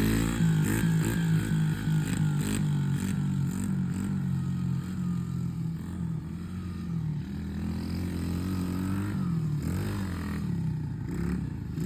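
Small motorcycle engines of a pit bike and minibike running at idle, their pitch wavering up and down with light throttle blips.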